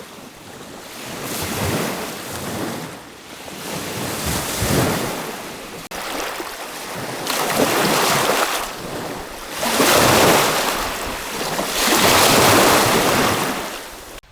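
Strong wind gusting and buffeting the microphone, a rushing noise that swells and eases about every two to three seconds.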